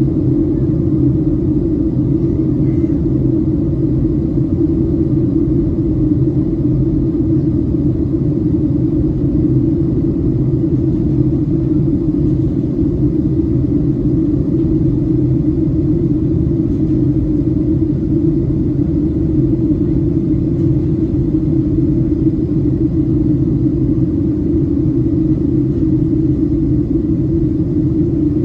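Steady in-flight cabin drone of a Boeing 737-700, the low rumble of its CFM56-7B engines and the airflow past the fuselage heard from inside the cabin, unchanging throughout.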